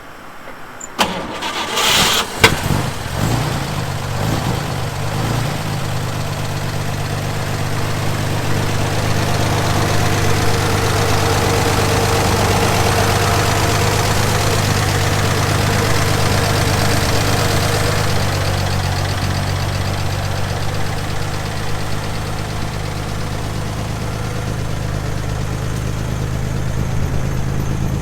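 A 1954 GMC 100 pickup's engine on a cold start: it cranks briefly and fires about a second in, then settles into a steady idle that is a little louder in the middle.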